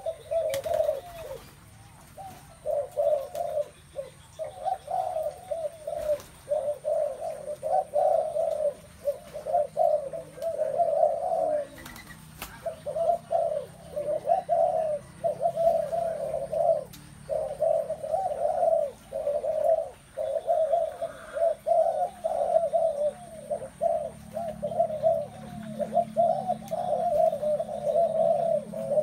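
Spotted doves cooing over and over, one coo following another with only brief gaps.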